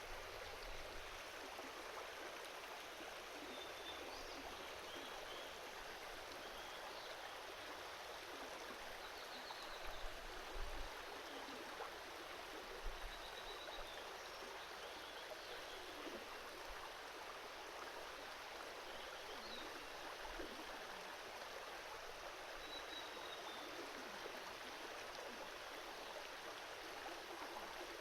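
Small river babbling steadily over rocks, with faint short high chirps scattered through and a few soft low thumps about ten seconds in.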